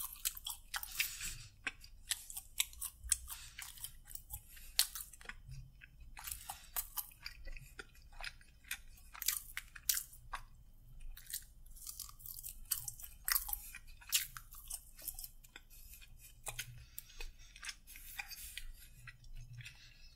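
Close-miked chewing of crispy fried chicken: irregular crunches and small wet mouth clicks, one after another.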